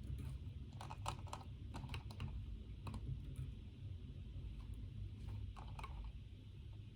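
Typing on a computer keyboard: a quick run of keystrokes in the first few seconds, a pause, then a few more near the end, over a low steady rumble.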